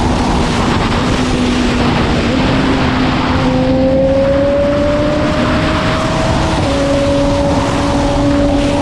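Sport motorcycle engine running at speed: a steady engine note that climbs slowly for a few seconds, then shifts pitch abruptly about two-thirds of the way in. Strong wind rush over the camera microphone runs under it.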